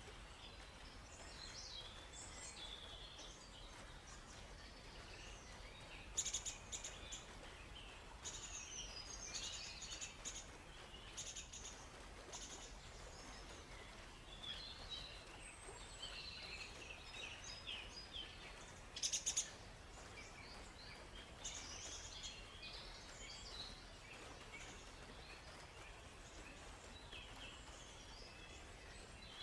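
Several small songbirds chirping and trilling in quick high phrases, with two louder rapid bursts of chirps about six and nineteen seconds in, over a faint steady hiss of background ambience.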